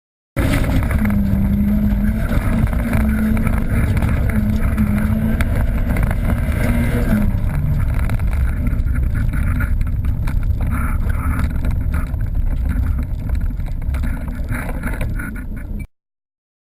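Dirt-trial car running at speed: a steady engine tone under heavy low rumble and wind buffeting on the microphone. The engine tone drops out about seven seconds in, leaving the rumble and wind.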